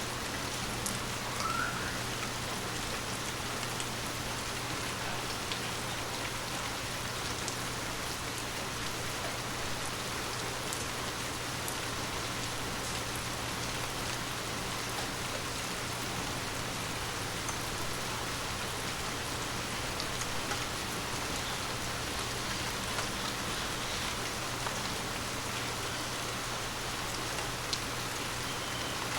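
Steady rain falling on forest leaves: an even patter with scattered individual drops.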